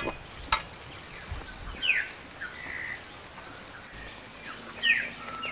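Birds calling outdoors: short calls that sweep quickly downward in pitch, heard about two seconds in and again near the end, over a faint background. Two sharp clicks come right at the start.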